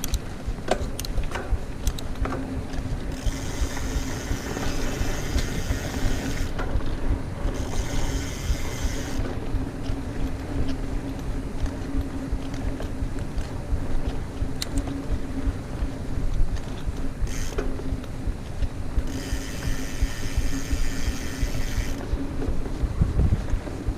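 Mountain bike rolling fast over a dirt trail, with wind buffeting the bike-mounted microphone, tyre rumble and sharp chain and frame rattles in the first couple of seconds. Several times, for a few seconds each, a high-pitched buzz comes in, the freewheel hub ticking fast while the rider coasts.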